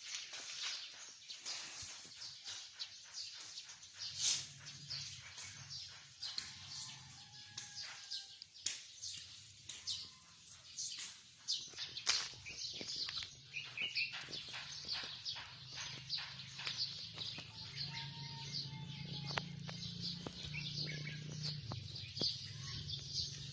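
Birds chirping, with many short sharp clicks and one louder knock about twelve seconds in. A low steady hum joins after about four seconds.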